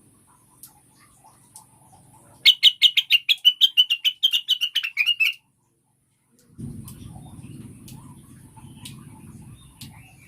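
Female greater green leafbird (cucak wilis) giving a rapid run of about twenty loud, quick chirps that slide slightly downward over roughly three seconds, the female's call to a male. After a brief gap, a low steady rumble of background noise with faint ticks takes over.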